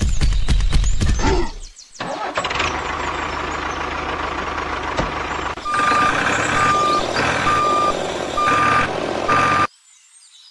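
A truck engine runs steadily after a short loud clattering start. About halfway through, a reversing alarm beeps about five times in an even rhythm over the engine, then both cut off suddenly near the end.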